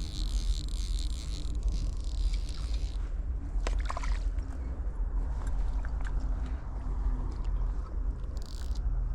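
River water flowing and sloshing, with a couple of brief splashes about four seconds in.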